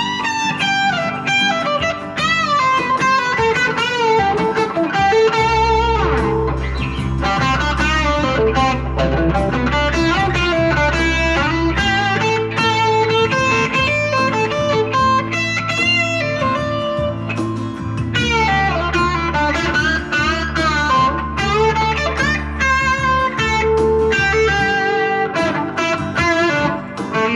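Single-coil electric guitar from a Squier Jaguar, through a JHS NotaKlon Klon-style overdrive into a Vox AC10 amp, playing bluesy lead lines with string bends and vibrato. A backing track with a bass line changing chords every few seconds plays underneath.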